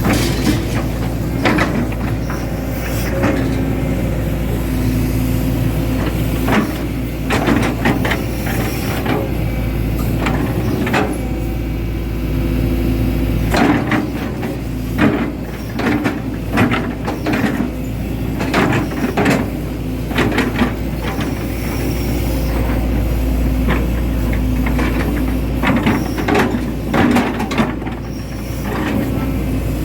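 Hitachi Zaxis 110 excavator's diesel engine running steadily under work, with repeated knocks and clanks scattered throughout.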